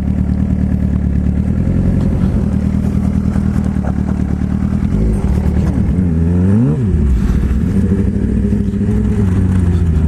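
Motorcycle engine running steadily while riding, with a quick rise and drop in revs about six and a half seconds in.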